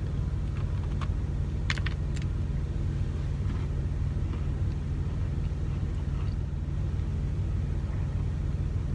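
Steady low rumble of an idling truck engine, with a few faint sharp clicks in the first couple of seconds.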